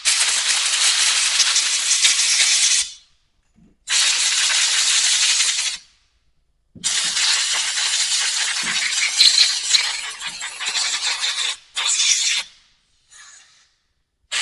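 Compressed-air blowgun hissing in three long blasts and a short faint one near the end, blowing out a freshly cleaned carburetor.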